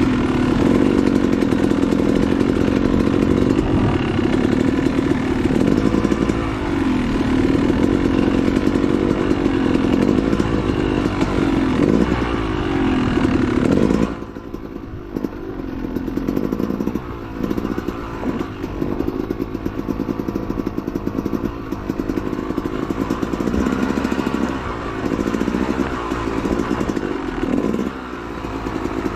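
Dirt bike engine revving up and down as it is ridden over rough trail. About halfway through it turns quieter and duller, the revs still rising and falling.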